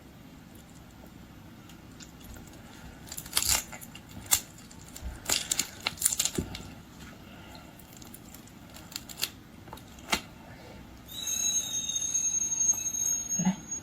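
Close-up crackling and cracking of a red prawn's shell being peeled by hand, in short clusters of clicks. Near the end comes a louder, high-pitched squeaky sound lasting about two seconds.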